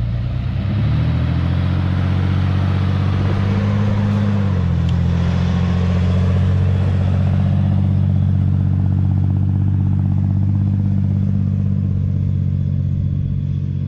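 Vehicle engine running steadily under load while towing a stuck van through soft sand on a recovery strap. Its pitch rises about a second in, drops a step about four and a half seconds in, then holds steady.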